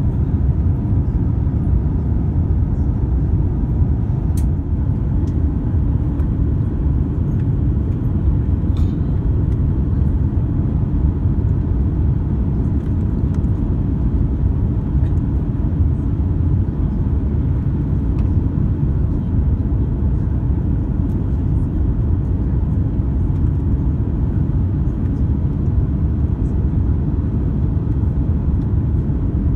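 Steady low rumble of an Airbus A350-900, with its Rolls-Royce Trent XWB engines and airflow, heard from inside the passenger cabin, with a couple of faint ticks.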